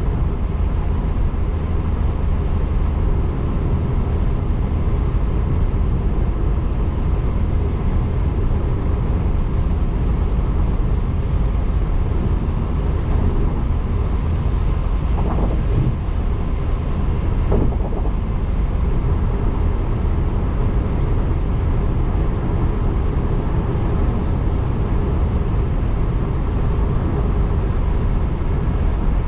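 Steady road noise of a car driving, strongest in the low rumble. Two faint brief sounds stand out about halfway through, a couple of seconds apart.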